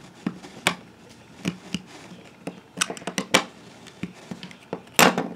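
Plastic Lego pieces clicking and knocking as a built Lego boat is handled and its hinged top opened. A handful of separate sharp clicks, a quick cluster in the middle and the loudest one near the end.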